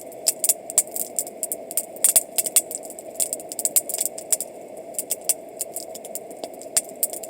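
Wood campfire crackling: irregular sharp snaps and pops, several a second, over a steady background.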